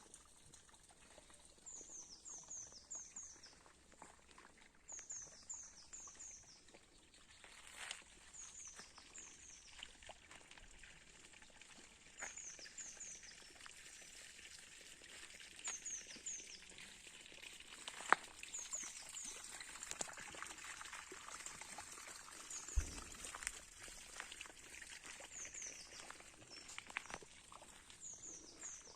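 A songbird repeating a short phrase of three or four quick, high, falling notes every two to four seconds. Scattered light clicks and knocks sound beneath it, with a sharper click about two-thirds of the way in and a dull thump soon after.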